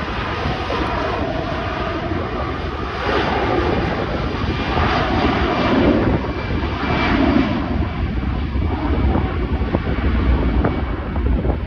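Airbus A320 airliner's jet engines at departure power, a steady rushing noise with a faint high whine, with wind buffeting the microphone.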